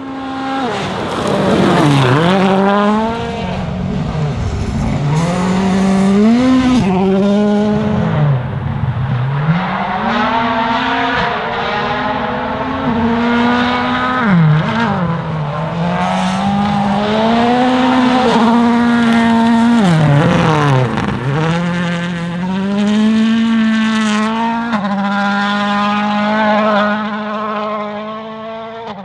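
Toyota Yaris WRC rally car's 1.6-litre turbocharged four-cylinder engine driven hard. Its pitch climbs through the gears and drops steeply several times on lifts and downshifts.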